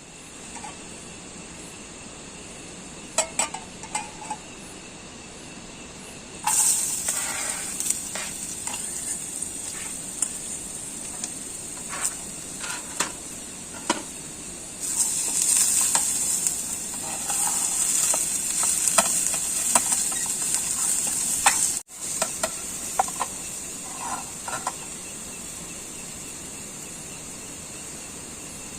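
Food sizzling in a pan on a camping stove, with a steady hiss that grows louder about six seconds in, while a utensil stirs and clinks against the pan.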